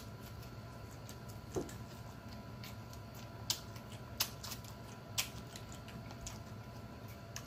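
A person chewing food with mouth noises: faint, with a few sharp clicks and smacks scattered through.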